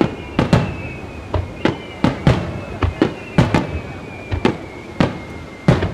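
Aerial fireworks shells bursting in quick succession, about a dozen sharp bangs at irregular spacing, each with an echoing tail. A long, faint whistle slowly falls in pitch underneath.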